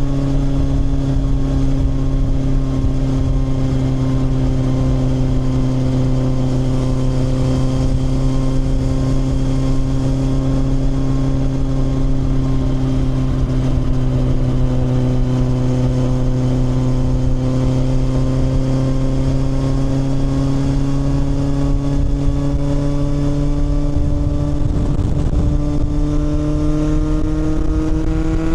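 Kawasaki motorcycle engine running at a steady cruising speed, its pitch rising over the last few seconds as the bike accelerates, over a constant rush of wind and road noise.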